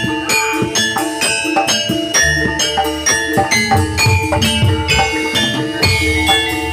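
Javanese gamelan music for jathilan dance: metallophones playing a steady run of repeating struck notes over drums and jingling percussion.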